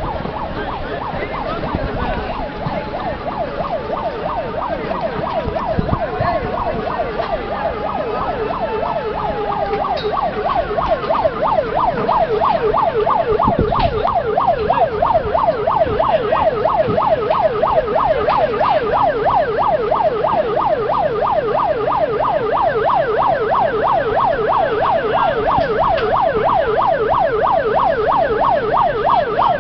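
Emergency siren sounding: a slow rising and falling wail that changes about ten seconds in to a fast, steady yelp.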